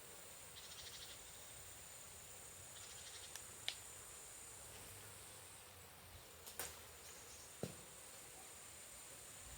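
Insects chirring faintly: a steady high-pitched trill, with two short rasping pulsed chirps in the first few seconds and a few faint clicks.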